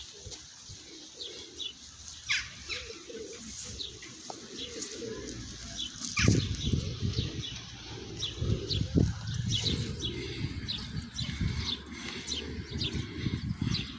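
Small birds chirping with many short, high calls, over a low rumbling background noise.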